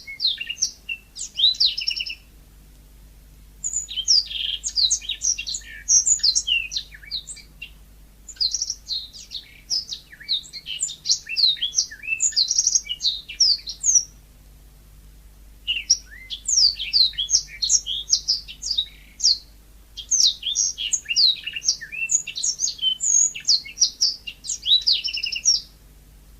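Yellow-fronted canary (mozambik) singing a rapid, twittering song of quick high notes, in long bouts with two short pauses.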